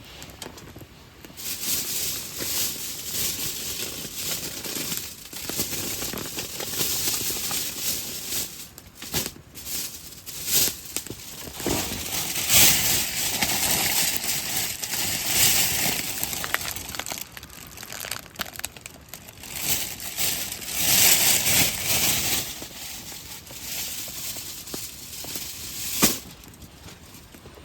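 Crinkling and rustling of something being crumpled and handled, in waves, with one sharp knock near the end.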